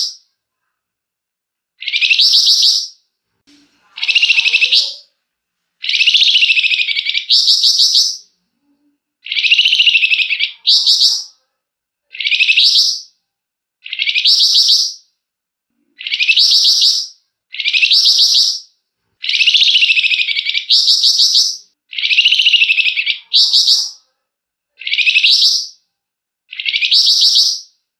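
Flamboyan bird repeatedly giving a loud, harsh rattling call (the 'ngebren' call prized by bird keepers). Each burst lasts about a second and comes roughly every two seconds, sometimes as a quick pair.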